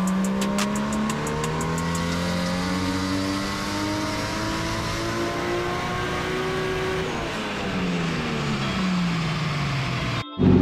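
Nissan RB20 turbocharged straight-six on a dyno pull, its revs climbing steadily under full load for about seven seconds, then falling away as the throttle is lifted. The sound cuts off abruptly near the end.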